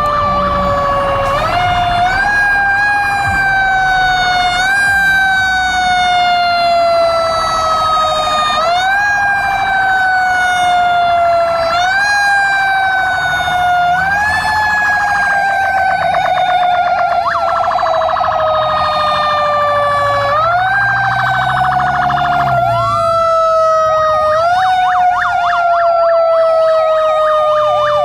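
Fire truck sirens blaring. One siren winds up quickly and slides slowly down in pitch, over and over every two to three seconds. A second siren yelps rapidly up and down over it in the second half.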